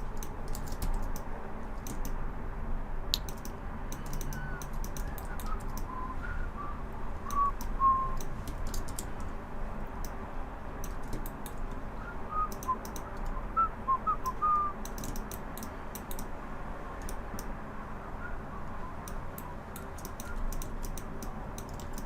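Computer keyboard and mouse clicking in quick, irregular runs, with two short bursts of soft whistled notes: one a few seconds in and one about halfway through.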